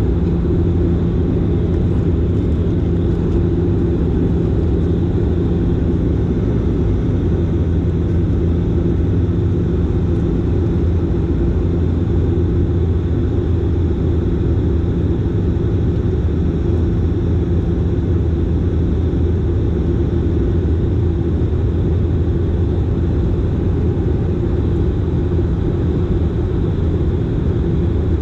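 Dash 8 Q400 turboprop engines and propellers running steadily in flight: a loud, even low drone with a steady propeller hum.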